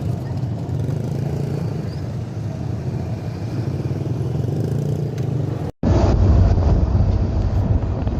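Steady low engine drone with a hum, broken by an abrupt edit about two-thirds of the way through. After the edit comes a louder, deeper engine rumble.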